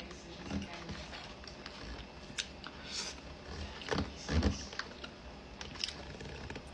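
Close-up eating sounds: a person chewing lobster tail, with scattered small clicks and a few soft, low thumps.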